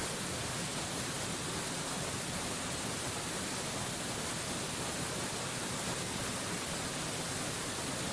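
Waterfall: a steady, even rush of falling water with no change in level or character.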